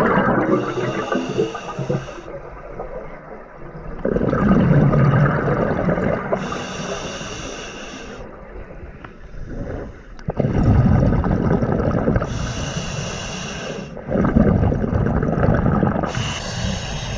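Scuba diver breathing through a regulator underwater: four hissing inhalations of about two seconds each, every four to six seconds, each followed by a louder rush of exhaled bubbles.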